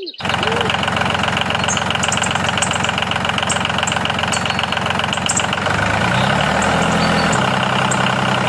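Tractor engine running steadily at idle with a fast, even chug.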